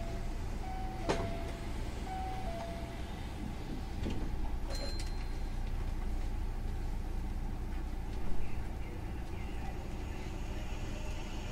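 Hankyu 9000 series electric train running, heard from inside the car: a steady low rumble of wheels on track. A short alternating two-note tone sounds in the first few seconds, with a sharp click about a second in and a knock around eight seconds.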